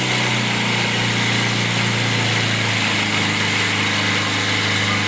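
Small boat's engine running steadily under a constant hiss, its note dropping slightly just under three seconds in.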